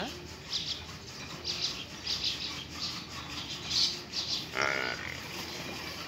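Small birds chirping repeatedly in short, high calls, with one short, lower-pitched call about four and a half seconds in.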